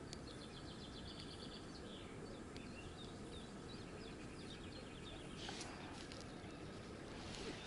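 Small birds chirping faintly, with a rapid run of short high chirps in the first two seconds and scattered calls after, over quiet outdoor background noise.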